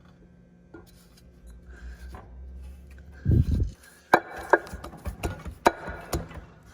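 Metal parts being handled as a drive flange is fitted back onto a Thermo King reefer engine. There are light clicks, a heavy low thud a little over three seconds in, then a quick run of sharp metal knocks and clanks.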